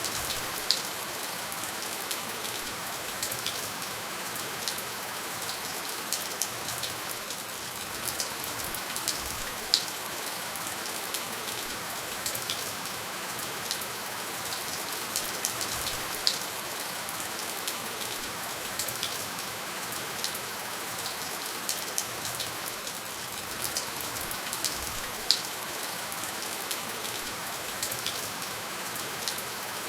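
Steady rainfall pattering on a surface, with no thunder, and now and then a single louder, sharper drop hitting close by.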